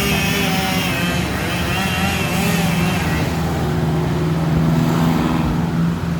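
Chainsaw running at high revs while cutting wood: a steady engine drone with a higher whine that wavers in pitch as it works.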